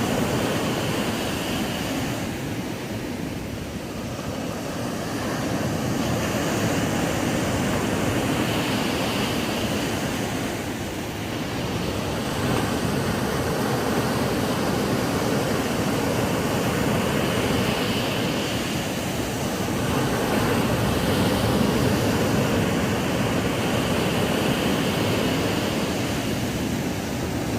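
Ocean waves breaking and washing up a sandy beach in a steady surf, the rush rising and easing every several seconds as each wave comes in.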